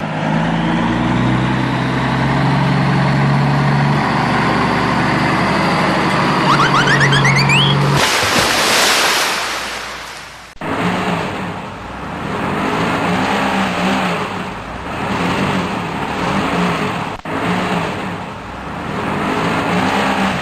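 Vehicle engine sound, steady and stepping in pitch, with a few rising whistles about seven seconds in. A loud burst of rushing noise follows for about two seconds. The engine sound then returns, swelling and fading in waves.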